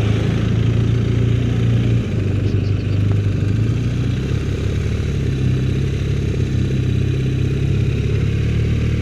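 Motorcycle engine running as the bike is ridden along a road, easing off briefly about two seconds in.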